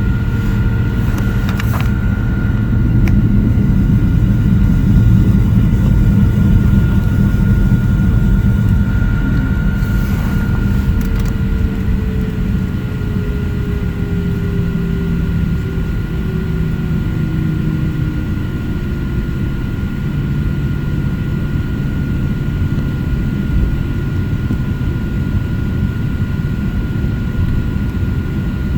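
Airplane engines running while the plane taxis: a steady low rumble with a constant high whine. A fainter tone slides slowly down in pitch through the middle.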